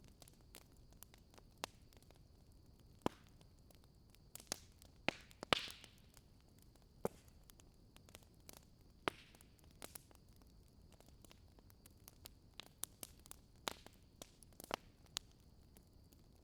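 Wood fire crackling faintly: irregular sharp pops and snaps over a low steady hiss, with a few louder snaps about five seconds in and again near the end.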